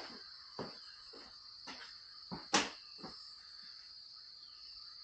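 Steady high-pitched chirring of crickets, with a handful of light knocks and clicks over the first three seconds, the loudest about halfway through.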